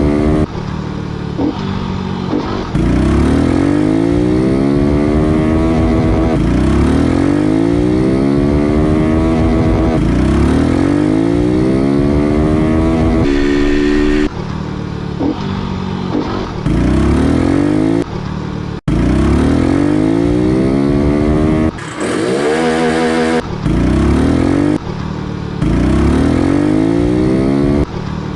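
Honda Pop 110's small single-cylinder four-stroke engine under way, its pitch climbing again and again and dropping back every few seconds, as it would through the gear changes.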